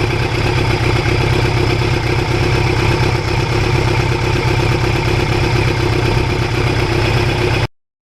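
Kawasaki Ninja GPX750R's inline-four engine, fitted with a Norton muffler, running steadily at an even pitch, then cutting off abruptly near the end.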